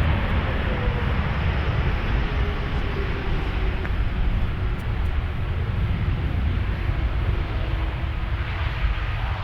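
Jet airliner's engines running: a loud, steady rumble with thin whining tones that slowly fall in pitch.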